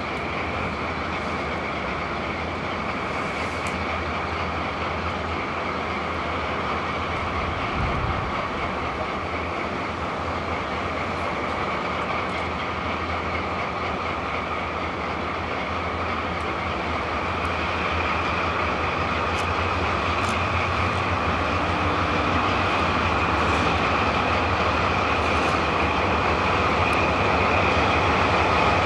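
A train hauled by a diesel locomotive (the ND552) running along the rails, with a steady rumble and low hum. It grows gradually louder as it comes on.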